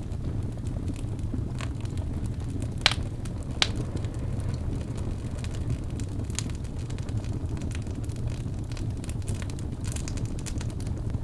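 Crackling fire: a steady low rumble of flames with scattered pops and snaps, two sharper pops a little under three and four seconds in.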